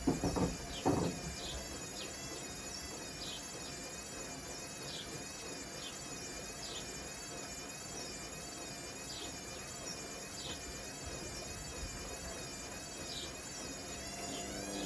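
Hotpoint Smart Tech washing machine turning its drum slowly before the spin, its motor giving a high, wavering electronic whine, with a few knocks from the bricks in the drum in the first second.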